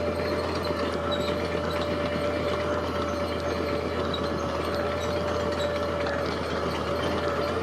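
Heavy diesel construction machinery running steadily, with a constant whine held over the engine noise.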